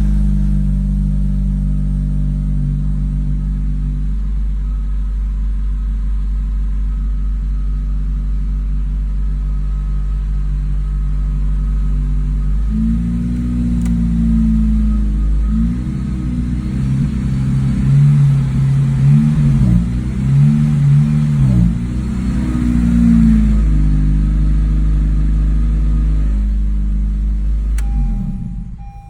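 Car engine idling just after a cold start, then revved several times in a row, its pitch rising and falling with each blip. It settles back to idle and is switched off near the end.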